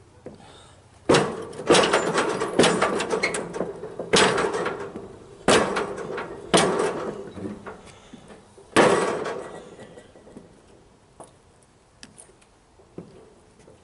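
A run of about seven loud knocks and clatters, each sharp at the start and ringing off briefly, then only faint small clicks near the end.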